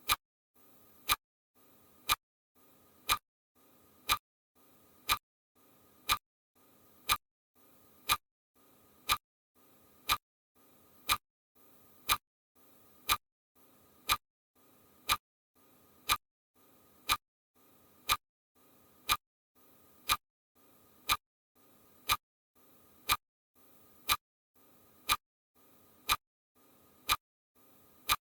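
Steady ticking: one sharp tick almost exactly every second, perfectly even, with a faint soft sound between the ticks.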